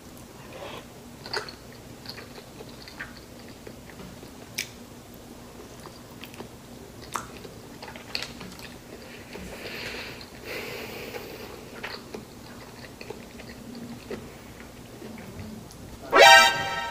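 Close-up chewing of shrimp dim sum, with soft wet mouth clicks scattered through. Near the end there is one short, loud pitched sound.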